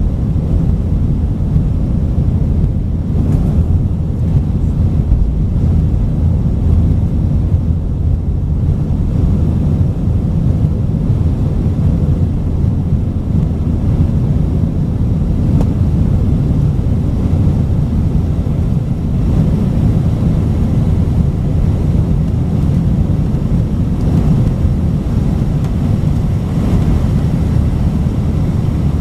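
Steady low rumble of an Airbus A319-132 heard from inside the passenger cabin: its IAE V2500 turbofans and the airflow around the fuselage, even and unchanging in level.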